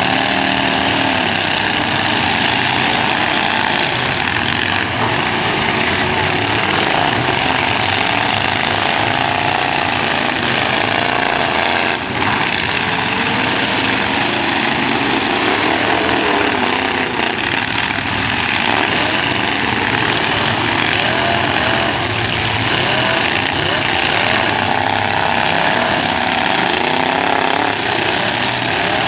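Several demolition derby cars' engines revving and running hard at once, pitches rising and falling, with a short sharp bang about twelve seconds in.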